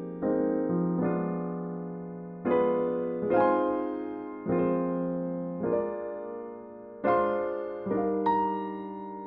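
Slow, soft jazz on electric piano: chords struck every second or two, each left to ring and fade.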